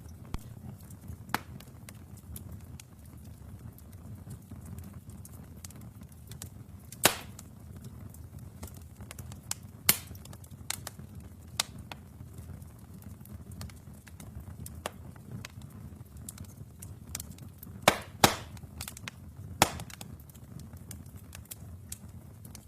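Wood fire burning in a fireplace: a steady low rumble of the flames with scattered sharp crackles and pops from the burning logs, a handful of them much louder than the rest.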